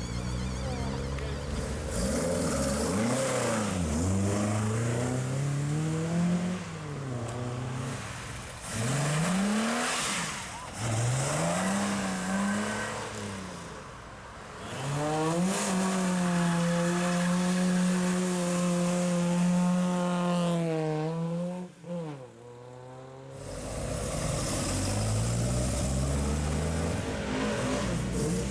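Classic Ford cars pulling away hard, engines revving up and dropping back through several gear changes. About halfway through, one engine is held at high revs for about five seconds and then cut off sharply, and a low engine rumble follows near the end.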